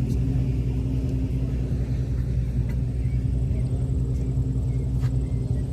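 A car engine idling with a steady low rumble, with a couple of faint clicks.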